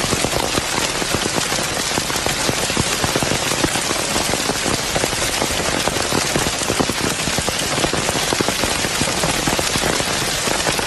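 Heavy storm precipitation pelting a hard surface: a dense, steady patter of countless individual hits.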